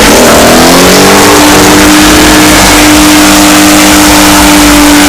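Car engine revving up in the first second, then held at steady high revs during a burnout, very loud.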